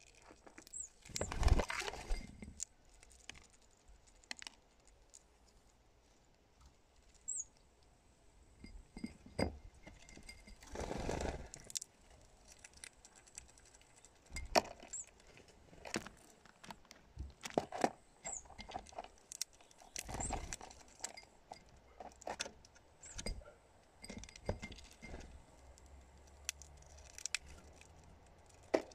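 A small bird perched on a glass jar: irregular clicks and taps of its claws and beak on the glass, with two louder rustling scuffles, one near the start and one about eleven seconds in, and a few brief high chirps.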